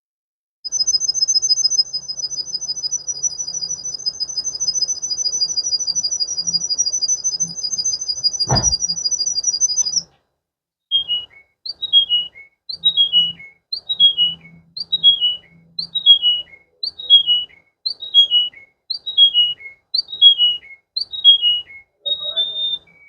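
Canary song. A fast, high, warbling trill is held for about nine seconds, with a single thump partway through. After a brief pause come a dozen or so identical falling whistled notes, repeated about once a second.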